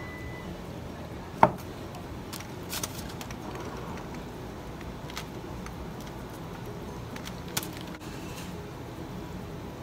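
A person eating tacos close to the microphone: quiet mouth and handling sounds over steady background noise, with a sharp click about a second and a half in, a few smaller clicks about a second later, and another click near the end.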